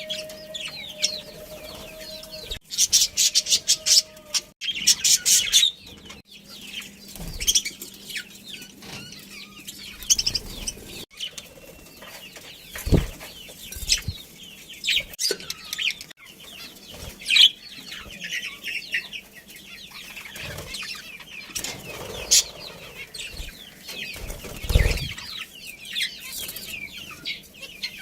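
Budgerigars chattering with many short, high chirps, and a flurry of wing flapping about three to five seconds in.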